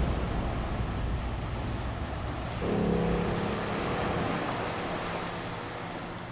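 Lake water washing against the harbour with wind on the microphone, a steady even rush; a low steady hum comes in about two and a half seconds in, and the whole sound slowly fades.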